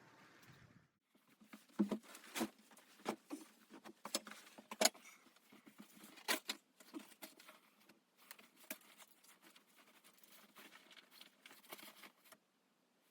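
Irregular light clicks, taps and rustles with a few sharper knocks, like small objects being handled.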